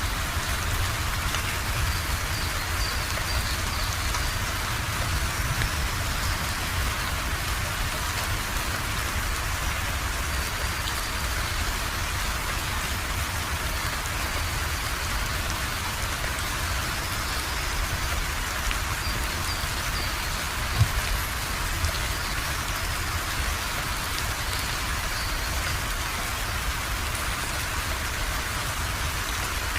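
Steady rain falling, an even dense patter with a low rumble underneath. A single sharp knock stands out about 21 seconds in.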